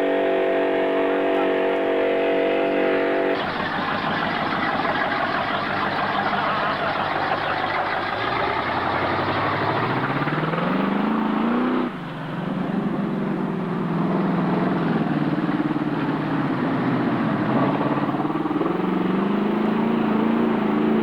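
Mud truck engine running hard under load. Its pitch climbs steadily as it revs up, breaks off suddenly about twelve seconds in, then rises and falls with the throttle.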